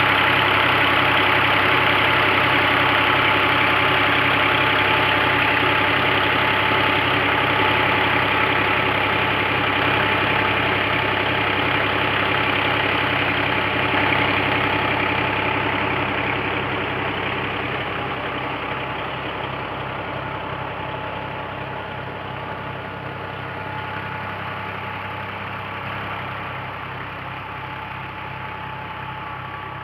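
Tractor's diesel engine running steadily with an even beat while powering a tubewell water pump. The sound fades gradually over the second half.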